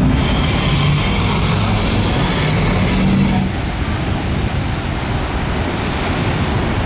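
Traffic of trucks driving past, with engines running. The low engine sound fades and the overall noise drops a little about three and a half seconds in.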